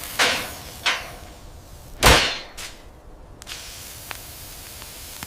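Animated-fight sound effects: three sudden hits with a swish, about a second apart, the loudest about two seconds in, each dying away over a steady hiss.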